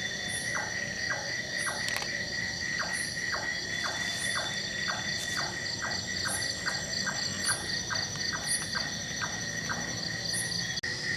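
Night chorus of insects trilling steadily on several high pitches. Through it comes a short call sweeping down in pitch about twice a second, with faint high chirps about once a second.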